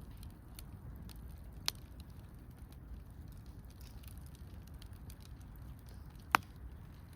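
Small wood campfire crackling with faint soft ticks, and two sharp pops: one a little under two seconds in and a louder one near the end.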